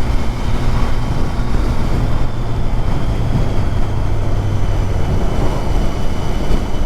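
Motorcycle engine running at a steady cruise under wind and road rush on the microphone.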